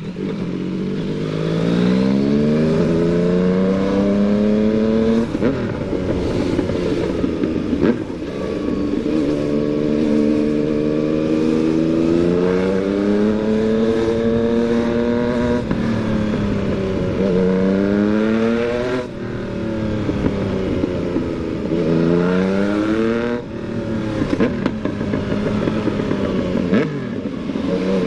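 Yamaha MT-09's 847 cc inline three-cylinder engine on the move, pulling up through the revs and dropping back sharply again and again as the rider shifts gears or rolls off the throttle.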